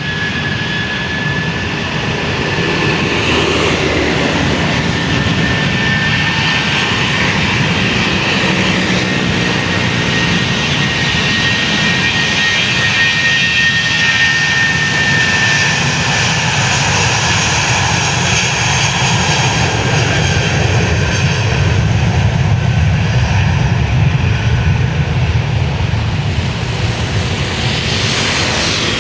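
Airliner engines running close by: a steady high whine that sinks slowly in pitch over the first half, over a continuous roar with a low rumble that grows stronger in the second half.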